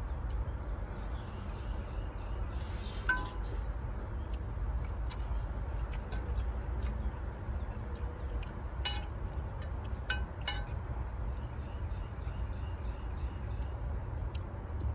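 An eating utensil clinking against a dish a few times, with short ringing taps, over a steady low rumble.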